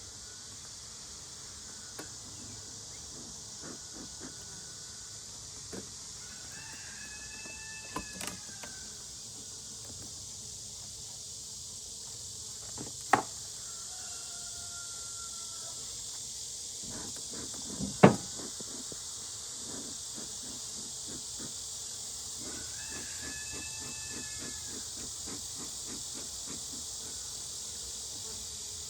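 A steady high-pitched chorus of summer insects, with a few short bird calls over it and two sharp knocks of wooden hive equipment being handled, the louder one about 18 seconds in.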